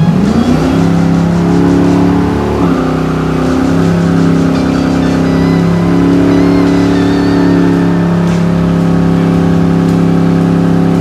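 Big-block V8 of a 1966 Plymouth Belvedere revved up hard and held at high revs during a burnout, rear tyres spinning in smoke. The pitch climbs at the start, dips briefly about three seconds in, then holds steady.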